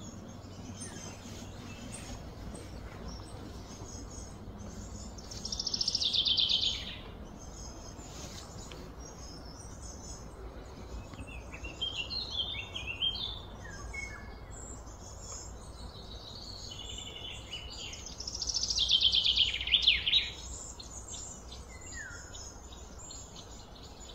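Birds chirping and calling over a steady low outdoor background hum. There are two louder bursts of rapid, chattering song, about six seconds in and again near 19 seconds, with scattered short falling chirps between them.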